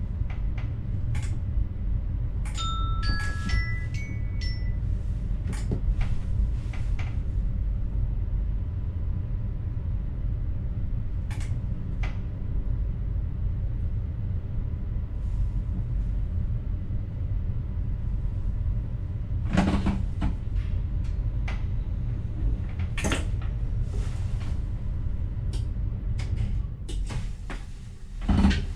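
Steady low rumble of an NS electric train heard from inside the driver's cab, with scattered clicks and knocks. About three seconds in, a short run of chime-like electronic beeps at several pitches sounds.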